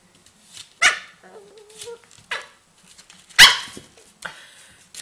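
Puppy barking: several short, sharp barks, with louder ones about a second in and about three and a half seconds in.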